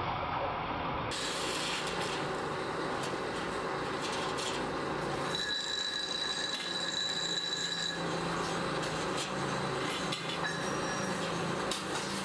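Metalworking machinery running in a spring-making workshop, with a high metallic squeal for a couple of seconds around the middle and a low steady hum in the second half.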